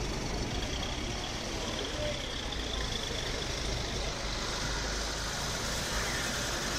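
Cars driving slowly past close by: a steady low engine rumble with no sharp changes, from a vintage sedan with wooden-spoke wheels and a modern SUV.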